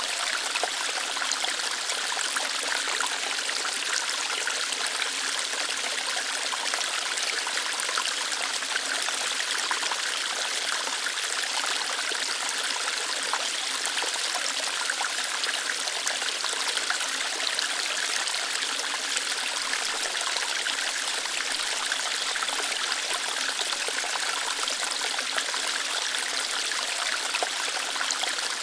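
Small waterfall, with water flowing lightly through rocks: a steady, even rush with fine trickling, bright rather than deep, and no change throughout.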